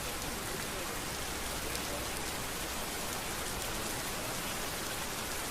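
Steady rain falling on a street: an even hiss of rain with faint scattered drop ticks.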